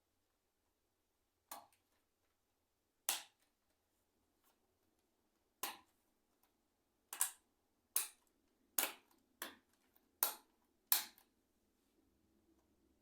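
Sharp plastic clicks from the keys of an ICL membrane keyboard being worked during reassembly: about nine single clicks, spaced a second or more apart at first, then coming faster, roughly one every half to one second.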